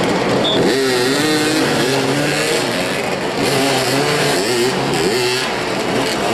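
Several motorcycle engines revving, their pitch rising and falling over and over.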